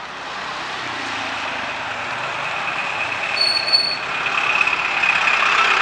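Steady wet-street noise with a rain and traffic hiss. About three and a half seconds in there are two short high beeps in quick succession.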